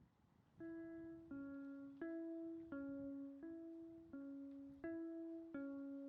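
Background music: a gentle plucked-string melody, one note about every 0.7 seconds rocking between two pitches, starting just after the beginning.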